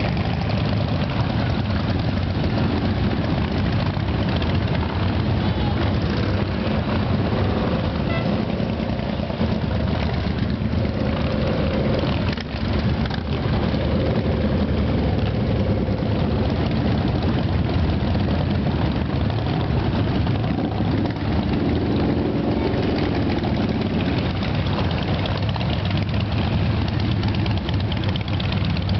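Several motorcycle engines idling and riding off in a group: a continuous low rumble, with single bikes' engine notes rising and falling over it.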